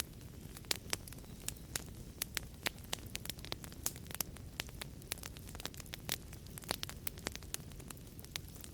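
Wood fire crackling in a fireplace: irregular sharp pops and snaps, a few a second, over a steady low rush of burning flames.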